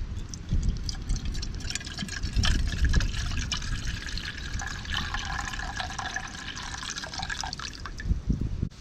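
Liquid pouring into a container, with a steady ringing note while it fills for several seconds.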